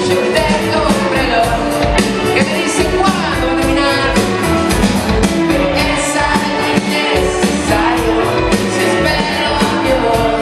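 Rock band playing live: singing over a steady drum beat and amplified instruments.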